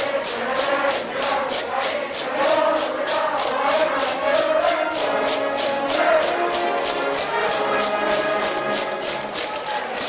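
School brass band playing a cheer song over a steady, fast drum beat, with a cheering section of students singing and chanting along.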